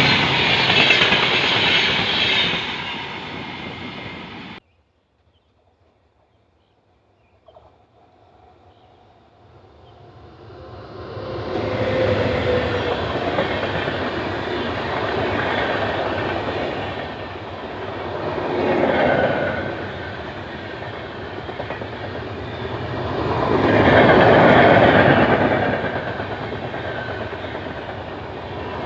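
Indian Railways express train of passenger coaches running through at speed, wheels clattering over the rail joints. The noise fades and cuts off abruptly about four and a half seconds in, then builds again as another train passes, swelling louder twice near the end.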